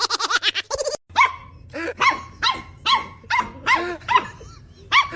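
A dog barking over and over, about two barks a second, starting after a short break about a second in. In the first second there is a different rapid pulsing sound, likely music.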